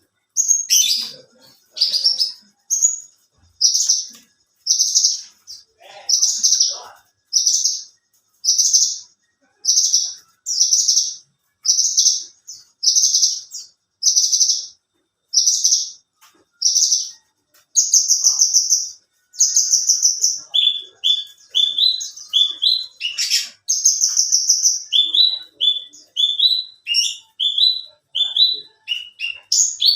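Javan bush lark (branjangan) singing loudly in a steady string of high, short notes about once a second, shifting to a couple of longer drawn-out notes and then to quicker, lower, falling notes about two a second.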